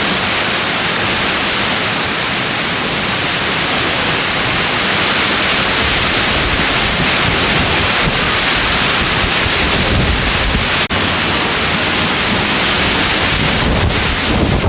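Strong wind buffeting the microphone: a loud, steady rush with low rumble, with a brief dropout about eleven seconds in.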